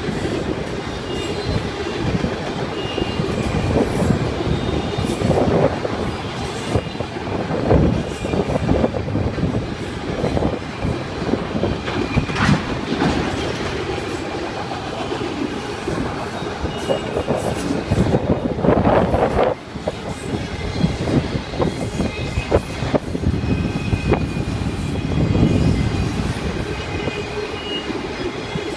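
Autorack freight cars rolling past at close range: a continuous rumble of steel wheels on rail, with irregular clacks and bangs as wheels cross rail joints and brief, faint high-pitched wheel squeals now and then.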